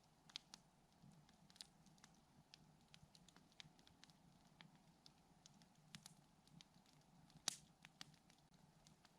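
Campfire crackling softly: a quiet run of small, irregular pops and snaps from the burning wood, with one sharper pop about three-quarters of the way through.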